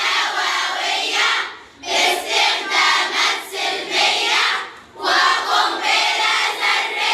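A group of schoolgirls singing a song together in unison, phrase by phrase with short breaks between lines.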